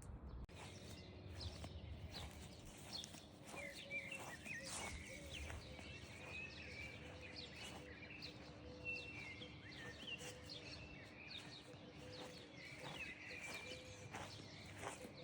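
Birds chirping and twittering in many quick, short calls over a faint steady hum.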